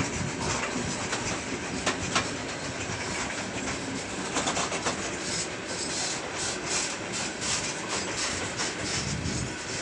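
Open-top wagons of a heavy freight train rolling past close by: a steady rumble of wheels on rail broken by frequent sharp clicks as the wheels cross rail joints, the clicks coming thicker in the middle of the stretch as the train picks up speed.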